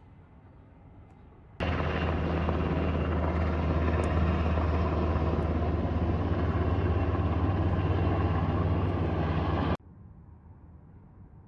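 Helicopter, very likely one of the aircraft fighting the fire, flying close with a steady low rotor and engine sound. It starts suddenly about a second and a half in and cuts off sharply near the end.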